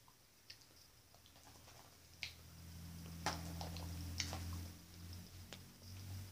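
Person chewing a jelly bean with the mouth closed, with a few sharp wet mouth clicks and a low hum lasting about two seconds in the middle.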